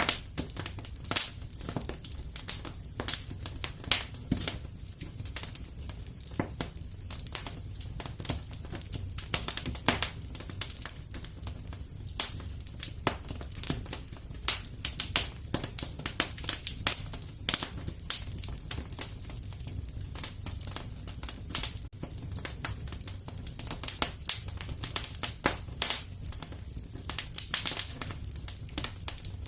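Wood fire crackling and popping in a fireplace: irregular sharp snaps over a steady low rumble of flame.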